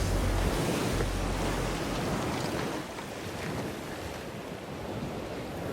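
Wind buffeting the microphone over the wash of open water; the deep rumble of the wind dies away about two seconds in, leaving a steady hiss with a few faint ticks.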